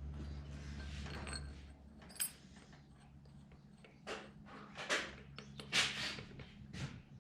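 Hand work on steel parts: a bright metallic clink about two seconds in, then a run of short scrapes and knocks, as bolts and tools are handled and worked on. A low steady hum stops within the first two seconds.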